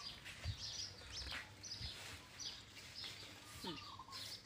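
Faint bird chirping: short high calls repeating every half second or so, with a few soft low thumps underneath.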